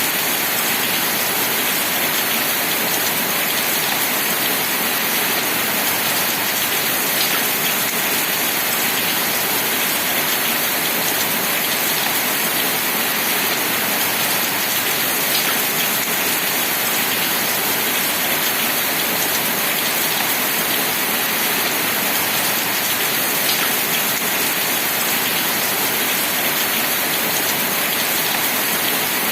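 Steady rain falling in an even hiss, with a few faint drop ticks.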